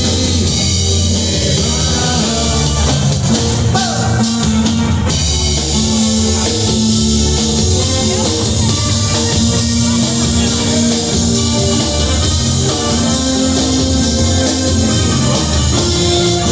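Instrumental break in a song played by a band with drum kit and guitar, without singing.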